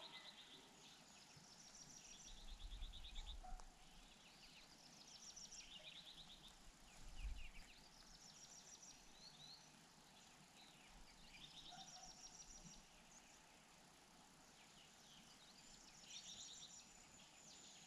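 Faint small-bird calls: short, rapid chattering trills repeated every couple of seconds. Two brief low rumbles come about two and seven seconds in.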